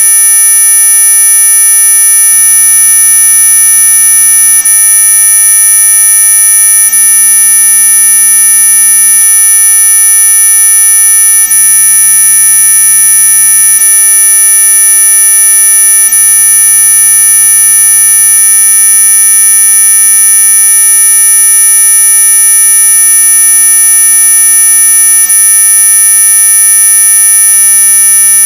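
Electronic mosquito-repellent tone: a loud, unchanging buzz made of many steady pitches sounding at once, from low to very high, the highest the strongest.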